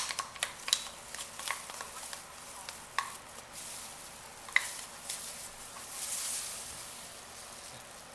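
A utensil stirring melted glycerin soap base in a container, with irregular clicks and light scraping as it knocks the sides.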